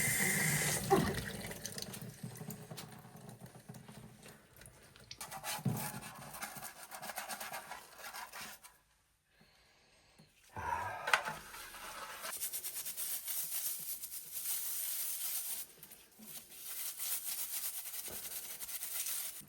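Tap water running into a sink while small espresso machine accessories are washed and scrubbed, with scattered knocks and rubbing. The water sound drops out for about two seconds near the middle, then resumes.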